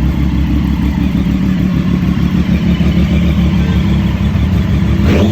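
Triumph three-cylinder motorcycle engine running steadily, with a short, sharp rising rev near the end.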